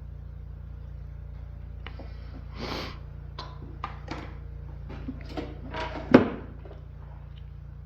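Workshop handling noises: scattered clicks, short scrapes and rattles of parts and tools, with one sharp knock about six seconds in, over a steady low hum.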